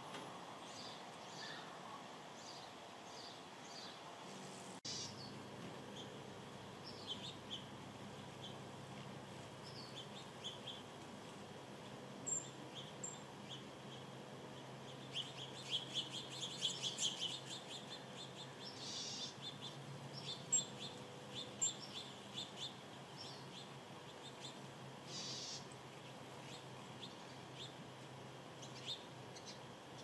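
Small birds chirping: short, high chirps scattered throughout, with a fast run of chirps about halfway through, over a faint steady outdoor background.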